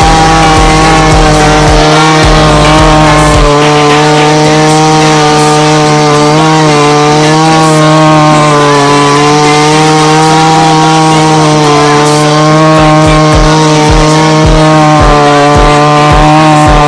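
Chainsaw held at high revs while cutting through wood, its pitch holding steady with slight dips under load.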